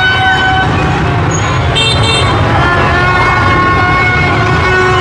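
Many horns tooting at once, several held notes at different pitches overlapping, over a steady din of motorbike and car traffic.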